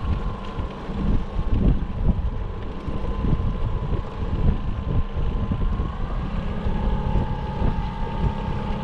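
Boat's outboard motor running steadily, with gusty wind buffeting the microphone.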